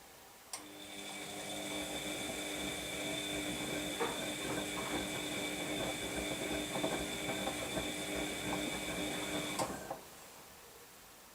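Washing machine drum motor running during the wash cycle: it starts with a click, turns the drum for about nine seconds with a steady motor whine and scattered knocks from the tumbling load, then stops with a click.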